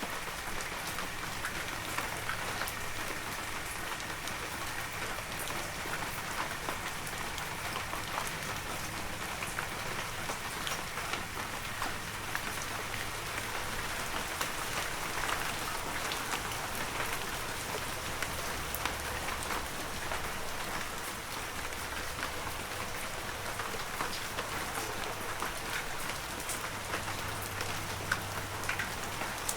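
Heavy rain falling steadily, a dense hiss with many individual drops pattering on surfaces.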